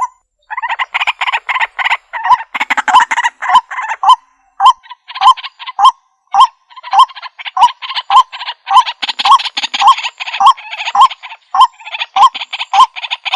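White-breasted waterhen giving its harsh, repeated "kur-wak-wak" croaking calls, the strongest notes coming a little under two a second, with short breaks near the middle.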